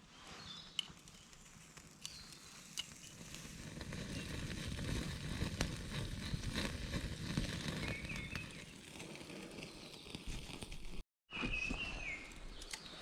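Woodland ambience: a few short bird chirps, scattered crackling clicks, and a low rumble through the middle. The sound drops out for a moment near the end.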